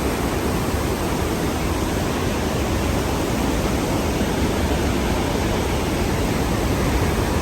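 Steady, even rush of the Khone Phapheng waterfall's water, with no breaks or changes.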